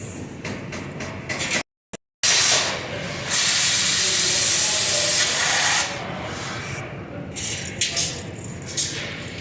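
A loud, steady hiss lasting about two and a half seconds in the middle, set in lower-level workshop noise; just before it the sound cuts out completely for about half a second.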